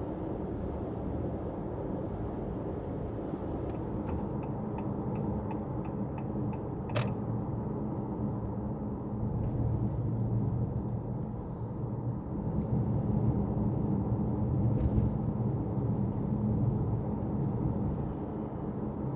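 Steady low rumble throughout. A quick run of light ticks comes about four seconds in, and a single sharp click follows near seven seconds.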